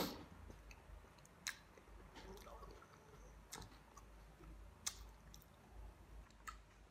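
A person quietly chewing a mouthful of soft sponge-and-cream cake with the mouth closed, with a few faint wet mouth clicks spread through.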